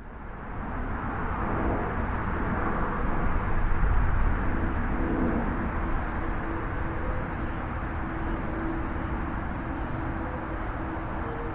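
Thunderstorm wind and rain: a steady rushing noise with a deep low end that swells to its loudest about four seconds in, then holds steady.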